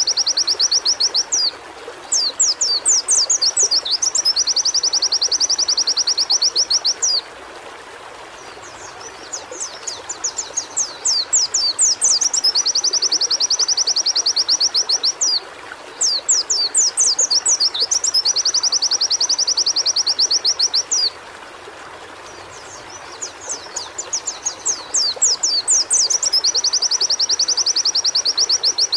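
White-eye (pleci) singing in repeated bouts. Each bout is a run of quick, sharp, falling notes that leads into a long, fast, high trill lasting several seconds, with short pauses between bouts.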